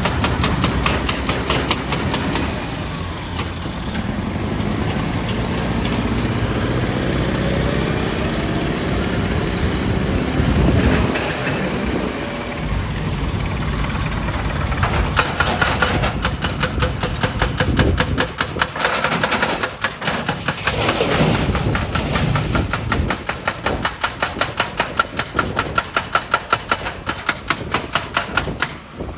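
A heavy machine's engine running, going up and down in pitch around the middle, with a rapid, even pulsing beat in the first couple of seconds and again through the second half.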